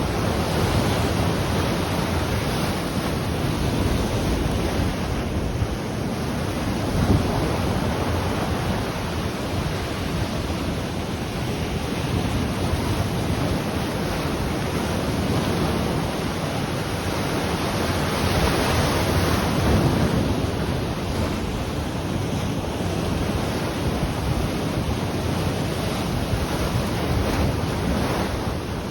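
Ocean waves breaking and washing on the shore, a steady surf that swells and eases every few seconds, with wind buffeting the microphone.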